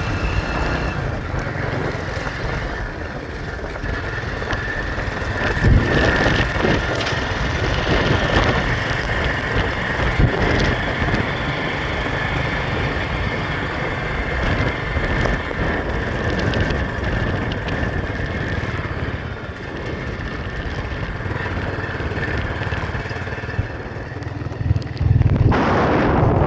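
Vehicle on the move, heard from aboard: steady engine and road noise, getting louder near the end.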